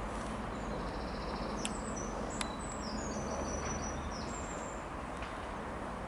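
Small birds chirping in a series of short, high trills and notes for the first few seconds, over a steady rushing background noise.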